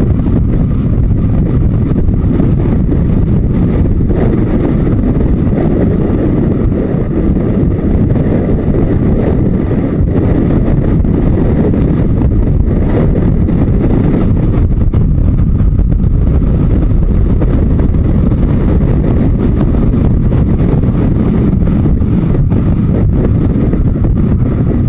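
Steady wind rush on the microphone from a Yamaha XJ900 Diversion motorcycle on the move, with the bike's air-cooled four-cylinder engine running underneath.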